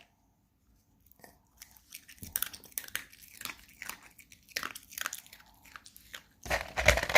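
A dog chewing and crunching food: irregular sharp crunches that start about a second in, turning to a loud, dense bout of crunching near the end.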